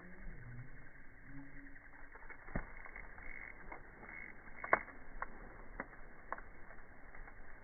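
Wood fire crackling, with a handful of sharp pops, the loudest a little under five seconds in.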